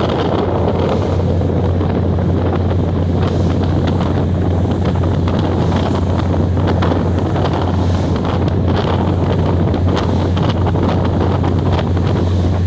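Steady running noise of a passenger train in motion: a constant low rumble with wind buffeting the microphone.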